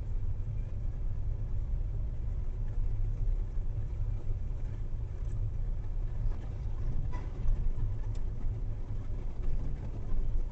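Low, steady rumble of a car driving, picked up by a dashcam inside the cabin, with a couple of faint ticks.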